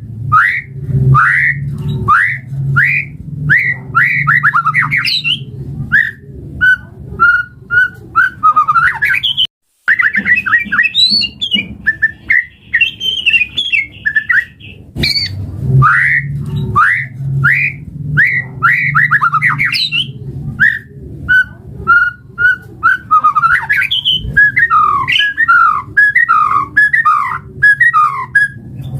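White-rumped shama (murai batu) singing a long run of loud, rising whistled notes mixed with fast trilled phrases, breaking off for a moment about ten seconds in. A steady low hum runs underneath.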